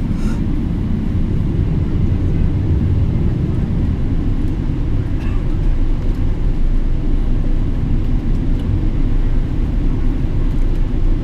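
Boeing 777-300ER with GE90 engines, a steady low rumble with no change in pitch or level.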